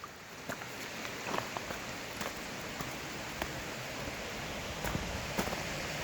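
Rushing water from a waterfall and stream, a steady hiss that grows a little louder, with a few light footstep clicks on rock.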